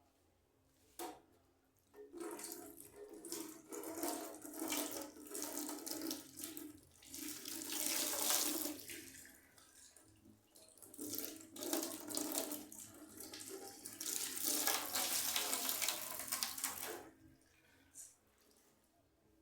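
Tap running into a sink, the splashing rising and falling unevenly as the water hits things under it, then shut off near the end. A sharp knock comes just before the water starts and another just after it stops.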